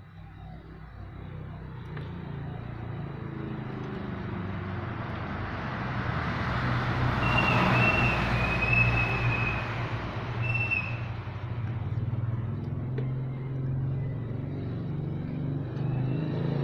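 A motor vehicle approaching and passing, its engine hum and road noise swelling to a peak about halfway through. Short high squeals come around the loudest moment.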